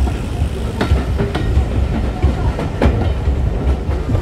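A train running along the track: a steady low rumble with a few irregular sharp clicks of the wheels over rail joints.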